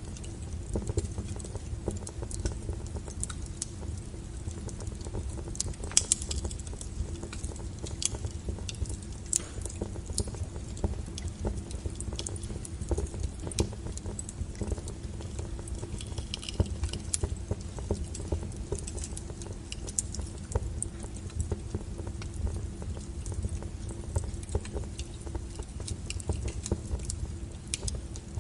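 Wood fire burning, with a steady low rumble of flames and frequent irregular crackles and sharp pops from the burning firewood.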